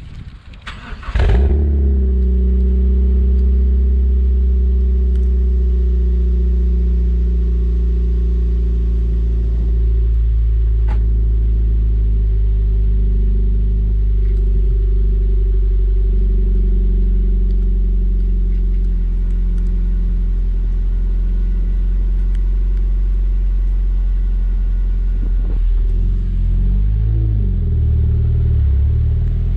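Mazda MX-5 NC's 1.8-litre four-cylinder engine breathing through an IL Motorsport aftermarket exhaust, starting about a second in and then idling steadily. The idle wavers briefly near the end.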